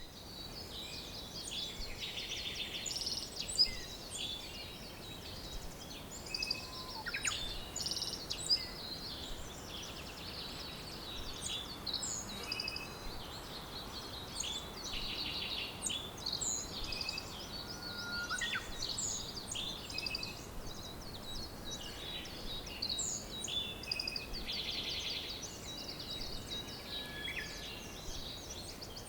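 Several songbirds singing and chirping together in a dense chorus, with short chirps and rapid trills overlapping throughout, over a steady background hiss.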